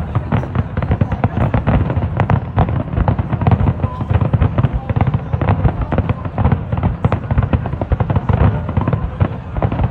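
Aerial fireworks bursting in rapid, overlapping succession: a dense, continuous barrage of booms and crackles.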